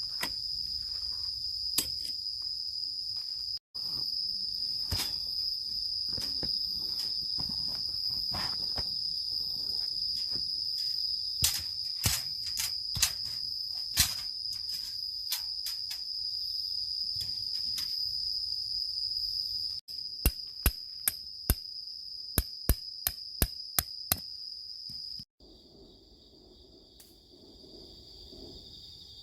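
Insects chirring in a steady high-pitched trill, overlaid by scattered sharp knocks and a quick run of about a dozen evenly spaced knocks near the end; the trill changes abruptly at a few points, as at cuts.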